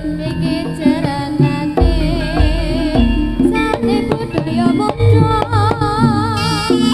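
Live Javanese jaranan band music: kendang hand drums beat out a rhythm under a wavering melody line, with deep bass notes.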